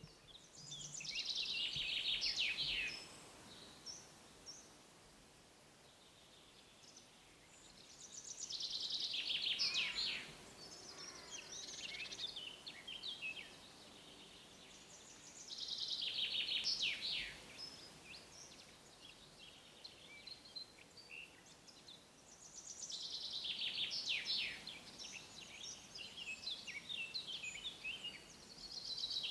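A songbird singing the same short phrase over and over, a quick run of high notes falling in pitch, about two seconds long and repeated roughly every seven seconds.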